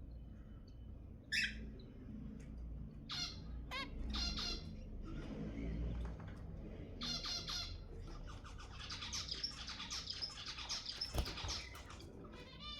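Zebra finches calling: a string of short, high, pitched calls, which crowd into a dense chattering run about three-quarters of the way in. A single sharp click sounds near the end.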